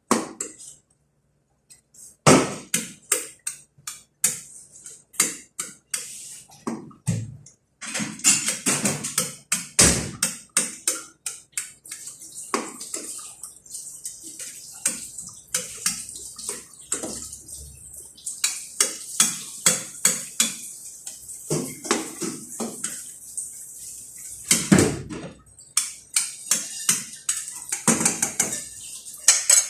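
Kitchen clatter: dishes and utensils knocking together in quick, irregular clicks, with running or splashing water hissing underneath from about a third of the way in.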